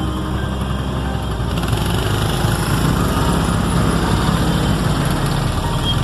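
Motor vehicle engine and road noise running steadily, loud, with a low engine hum.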